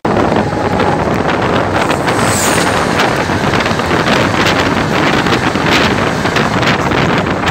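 A train of blue ICF coaches rushing past at speed on the adjacent track, close to an Indian train running in the other direction, with a dense clatter of wheels over the rails. Wind buffets the microphone.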